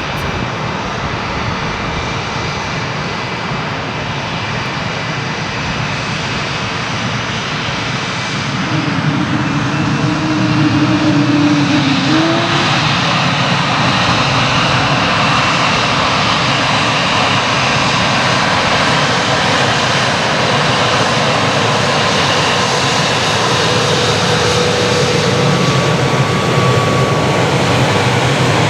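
Airbus A220-300 with Pratt & Whitney PW1500G geared turbofans, a steady jet noise that grows louder about ten seconds in, with a brief rising tone as it swells.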